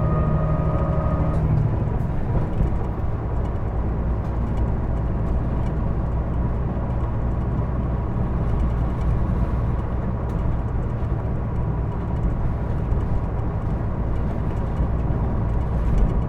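Hino Blue Ribbon II city bus (PJ-KV234L1) under way, heard from inside: a steady diesel rumble with road noise. A whining tone stops about a second and a half in.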